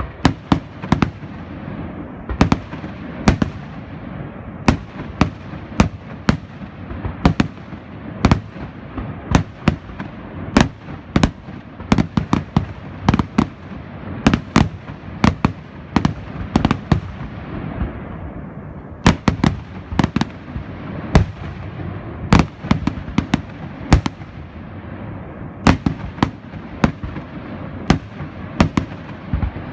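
Fireworks display going off continuously: a steady run of sharp bangs from bursting shells, often several a second, over a constant rumble and crackle, with a brief lull a little past halfway.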